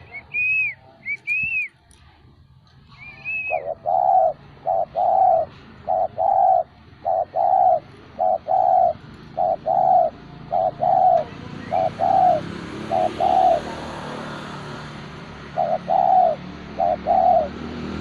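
Spotted dove (tekukur) cooing over and over, a run of short low notes repeated in steady phrases. A few high arched chirps come just before the cooing starts, and a hiss of background noise builds through the second half.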